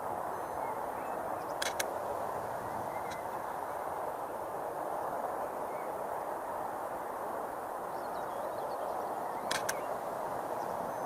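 Steady rushing outdoor background noise with faint bird chirps, broken by two sharp clicks about eight seconds apart.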